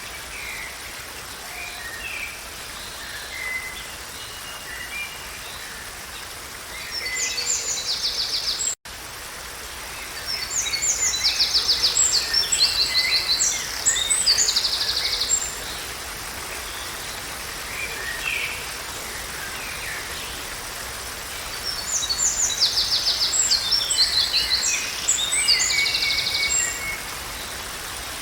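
Songbirds singing in bursts of quick chirps and rapid trills, three louder spells of song, over a steady background hiss of forest ambience. The sound drops out for an instant about nine seconds in, like an edit cut.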